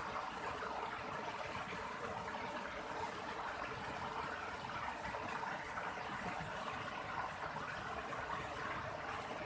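Steady rushing water, an even hiss that holds constant with no distinct splashes or drops.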